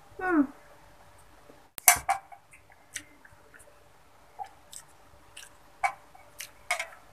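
A person chewing a mouthful of spicy fried flat rice noodles, with scattered wet mouth clicks. There is a short falling hum at the start, and a sharp clink about two seconds in as a metal spoon is set down on the plate.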